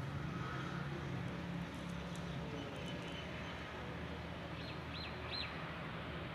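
A bird gives three short chirps about four and a half seconds in, over a steady low hum of outdoor background noise.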